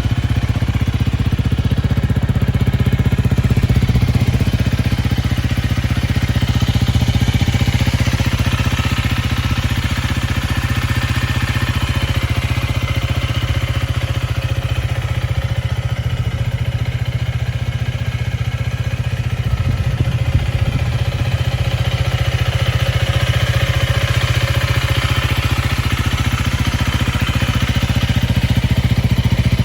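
Honda CRF250L's single-cylinder engine running at a steady idle.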